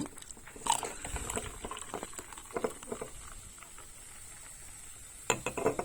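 Frothed milk poured from a steel milk pitcher into an espresso cup, with soft gurgling and a few light clinks and knocks of pitcher and cup, a small cluster of them near the end. A faint steady high hiss sits underneath.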